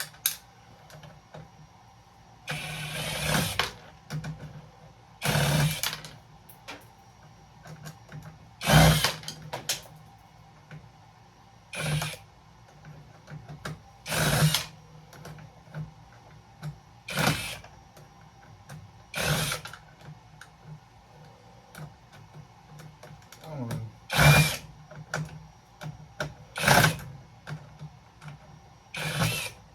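Cordless power drill backing out flathead screws from a breaker box, run in about ten short bursts, one every two to three seconds, with pauses between screws.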